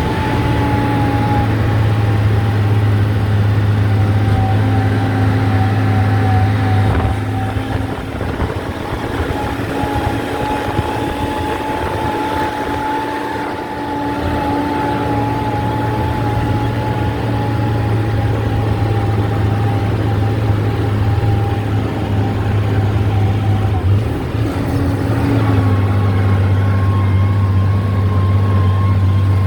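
Heavy earthmoving machine's engine running steadily, with a thin steady whine above the low drone that steps up in pitch near the end.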